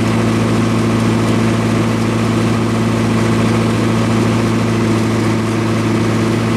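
MEP-004 military diesel generator running steadily under load, with a loud, even hum.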